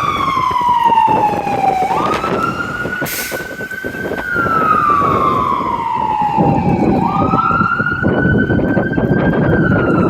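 Fire engine siren wailing, its pitch rising and falling slowly in cycles of about five seconds, over the truck's engine and road rumble, which grows louder about six seconds in as it draws nearer.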